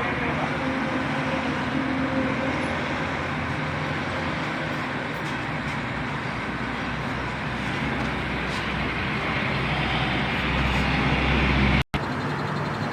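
A motor vehicle's engine running steadily, with a deeper rumble swelling about ten seconds in. The sound drops out for a moment near the end.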